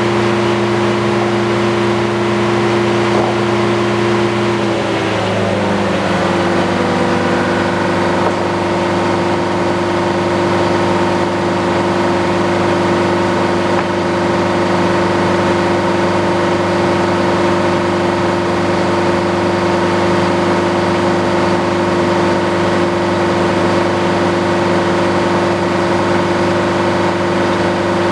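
Antique circular sawmill running, with a steady, loud machine hum from its power unit and spinning blade. The pitch shifts about five seconds in, then holds steady.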